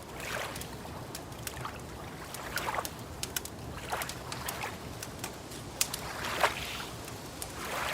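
Small lake waves lapping at the shore, a soft swash every second or two, over a wood fire crackling with frequent sharp pops.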